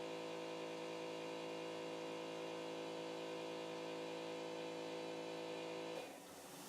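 Stepper motors of a CNC pen plotter running with a steady hum, which stops abruptly near the end, leaving a faint hiss.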